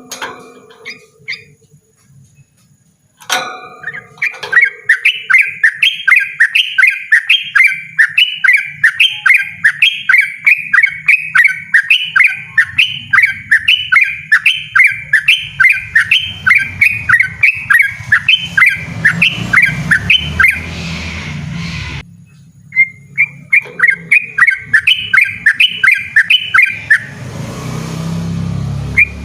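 Yellow-vented bulbul singing a loud, insistent run of rapid repeated notes, about two to three a second. The run breaks off about two-thirds through and starts again. A sharp knock comes about three seconds in, and a low rumble sits underneath.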